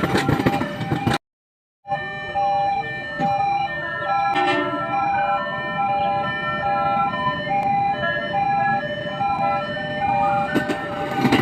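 Electronic two-tone warning alarm sounding in a steady repeating pattern of alternating high and low notes, like a railway level-crossing signal. It follows a second of loud train noise that cuts off abruptly, and dense noise returns near the end.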